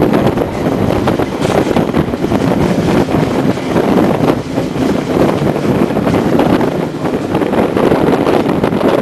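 Wind buffeting the microphone held out of a moving train's window, mixed with the train's running noise on the track. A loud, steady rushing sound that rises and falls unevenly.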